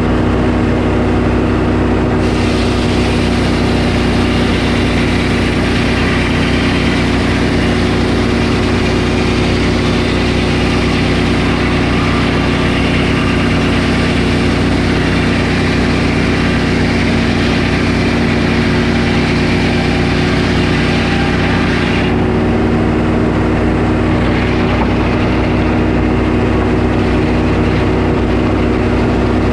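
Portable sawmill's engine running steadily while the blade cuts through a pine log, adding a broad hiss from about two seconds in; the cut ends about twenty-two seconds in and the engine keeps running.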